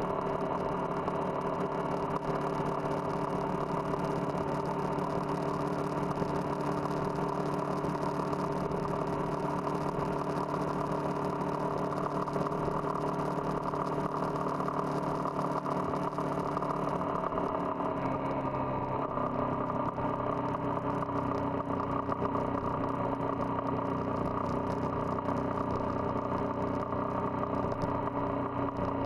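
Single-cylinder motorcycle engine running at a steady speed while riding, its pitch dropping about 18 seconds in and then holding steady at the lower note.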